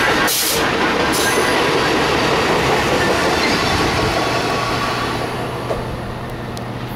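Metra Electric bilevel electric train running past close by, a loud steady rumble of wheels on rail. It fades as the last car goes by and the train draws away, about five seconds in.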